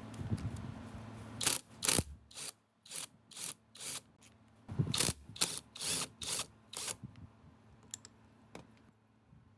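Hand tool working on the engine: two runs of short, sharp rasping strokes, about two a second, after a low steady hum stops in the first second and a half.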